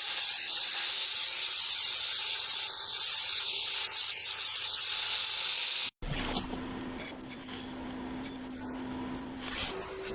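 A steady high-pitched hiss that cuts off abruptly about six seconds in. After it comes a faint low hum with four short, loud, high-pitched tones.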